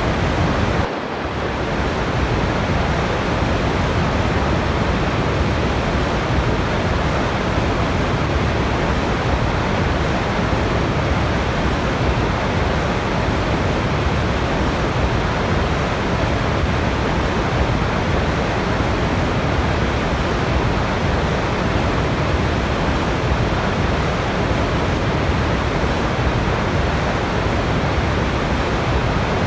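Steady rush of falling water from a waterfall, a dense, even hiss that briefly dips in level about a second in.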